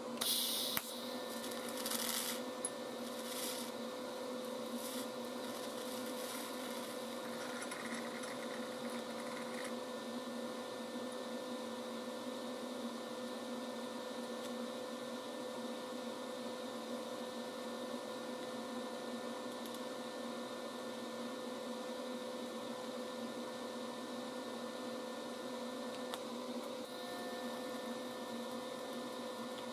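A small machine running with a steady hum. A few short hissing and rattling noises come in the first few seconds, and another brief hiss comes about eight seconds in.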